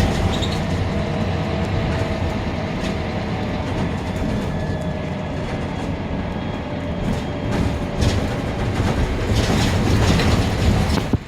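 Interior of a Scania K310UB city bus under way: the rear-mounted diesel engine drones, mixed with steady road noise and occasional rattles and knocks from the body.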